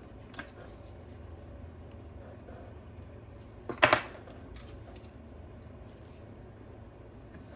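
A few small metallic clicks and taps from repair tools and small parts being handled on the workbench, the loudest a quick double click about four seconds in.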